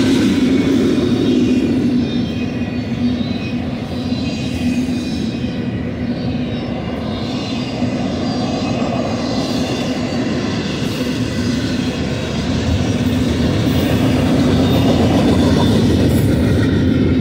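Double-stack intermodal freight train's loaded well cars rolling past, a steady rumble of steel wheels on rail.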